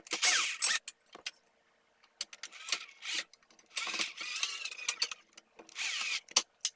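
A small cordless drill running in several short bursts, each about a second long and changing pitch as it speeds up and slows, with sharp metal clicks between bursts, as holes are drilled and screws are driven to fix a sheet-metal shield.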